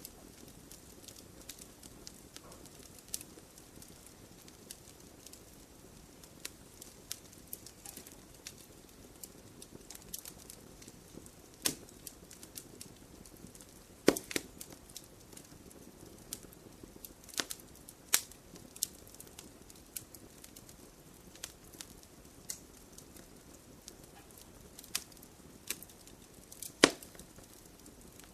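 Campfire burning: a low, steady hiss of flame under frequent sharp crackles, with a few louder pops scattered through, the biggest about twelve, fourteen, eighteen and twenty-seven seconds in.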